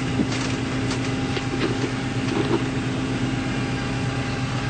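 A steady machine hum made of several low tones, with a few light clicks and knocks in the first couple of seconds.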